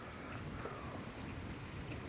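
Steady rain during a thunderstorm, with a low, uneven rumble of wind on the microphone.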